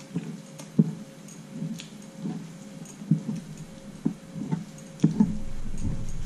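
Close-miked eating sounds: chewing with wet smacks and small clicks, a soft bite every half second to a second, while fingers mix rice and dal on the plate. A steady low rumble comes in about five seconds in.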